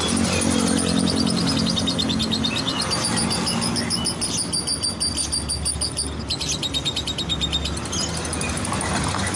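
Lovebird chattering in rapid, high, trilling chirps that come in runs through the middle, with a brief break, over a low rumble of background traffic.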